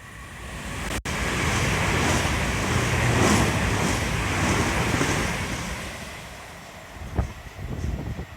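Southeastern electric train passing through at speed: a rushing noise that swells to a peak a few seconds in and then fades, with wind buffeting the microphone. The sound drops out briefly about a second in, and there is a sharp knock near the end.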